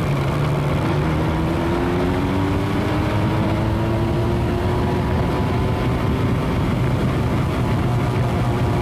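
Motorcycle engine running as the bike rides along, heard close up from a camera mounted on the motorcycle, with road and wind noise. Its pitch drops about a second and a half in, then rises slowly.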